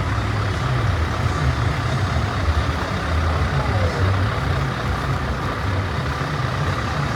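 Heavy truck diesel engine running steadily, its sound sitting low and strong.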